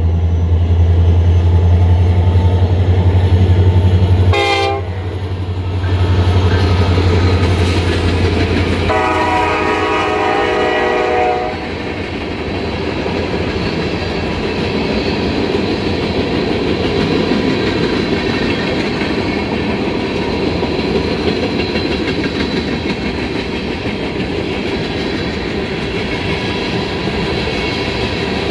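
Freight diesel locomotive passing with its engine running loud and low, sounding a short horn toot about four seconds in and a longer horn blast of two or three seconds about nine seconds in. After that the conveyor train's cars roll past with steady wheel and rail noise and clickety-clack.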